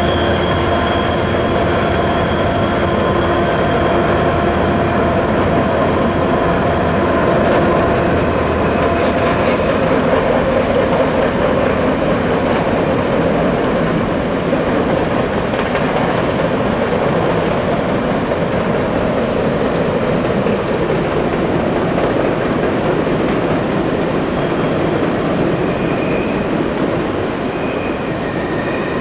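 Canadian Pacific coal train of empty hopper cars rolling across a steel truss bridge: a steady rumble and clatter of wheels on rail. A few steady tones sound over it in the first several seconds and fade out by about eight seconds in.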